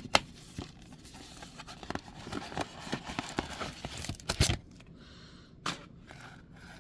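Trading-card packaging and cards being handled: crinkling, rustling and scraping with scattered small clicks, a sharp click right at the start and a louder knock about four and a half seconds in.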